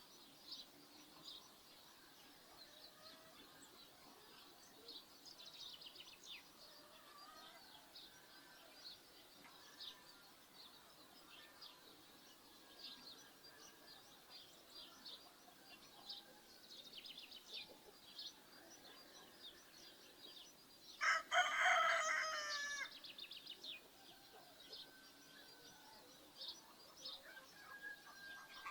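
A rooster crows once, loudly, for about two seconds roughly two-thirds of the way through, over steady chirping of small birds.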